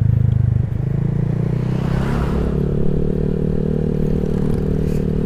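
Honda Vario 150 scooter's single-cylinder engine running through an aftermarket Black Devil R2 Seca exhaust while riding. A loud, steady exhaust note eases off less than a second in and then holds steady at a lower level. A rushing noise swells and fades about two seconds in.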